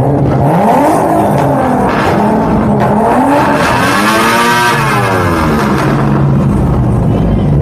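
Car engine revved several times over a steady idle, the pitch climbing and dropping back each time; the biggest rev peaks about four and a half seconds in.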